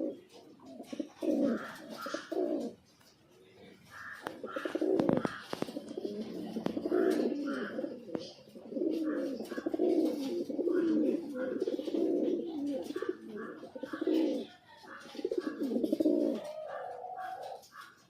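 Domestic pigeons cooing, low calls following one another almost without a break, with a short lull about three seconds in.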